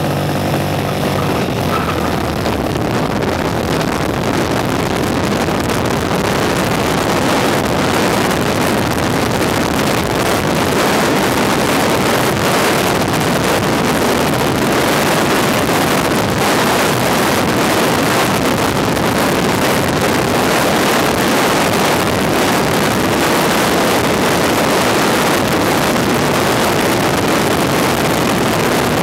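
2012 Morgan 3 Wheeler's V-twin engine pulling hard at speed, its note clear for the first second or so and then largely buried under a steady wind rush on the microphone of the open car.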